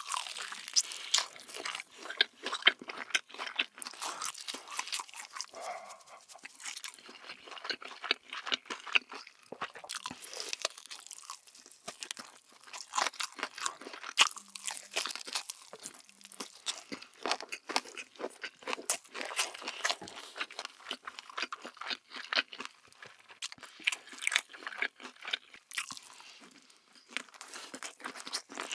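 Close-up crunching and chewing of crispy Hack Buldak (extra-spicy) chicken: many irregular crackles as the coating is bitten and chewed.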